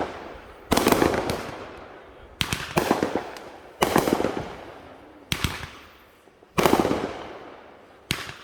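Fireworks going off one after another, about every one and a half seconds. Each is a sudden bang followed by a cluster of crackling pops that dies away.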